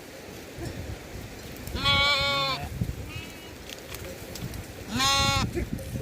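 Sheep bleating twice, about three seconds apart; each bleat is a loud, wavering call, the first a little longer than the second.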